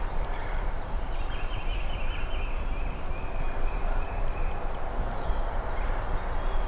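Wild turkey calling, a string of short high notes, over a steady low rumble.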